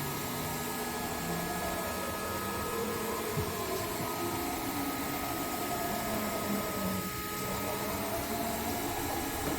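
Haas VF-6SS vertical machining center traversing its table in the Y axis: a quiet, steady machine hum with faint whining tones that drift slightly in pitch as the axis moves.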